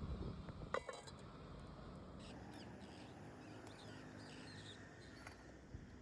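Pet parrots calling: one short, harsh call about a second in, followed by faint high chirps and squeaks, with a single sharp click near the end.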